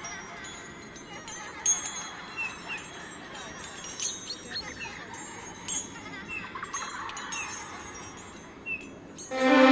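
Small birds chirping, many short high-pitched calls over outdoor background noise; music starts suddenly near the end.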